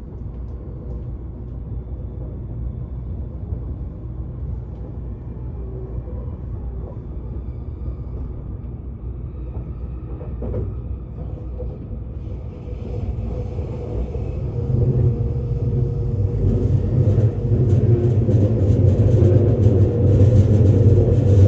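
Train running with a steady low rumble that grows louder from about halfway through.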